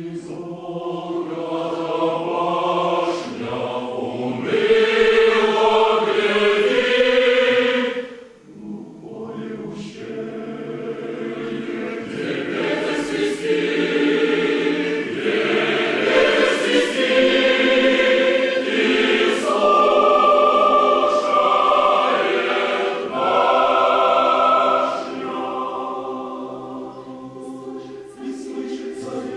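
Choir singing unaccompanied in several parts, low voices under high ones. It swells loudest from about five to eight seconds in, breaks off briefly, then goes on.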